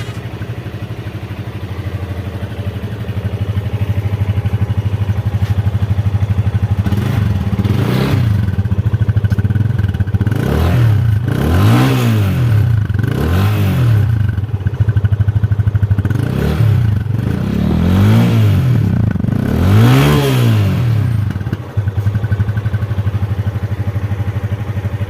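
Yamaha FZ25's single-cylinder engine through an Akrapovic slip-on exhaust, idling steadily, then blipped in a series of short throttle revs that rise and fall back to idle, starting about eight seconds in.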